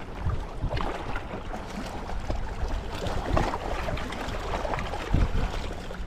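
Strong wind buffeting the microphone: a low, uneven rumble that swells and drops with the gusts.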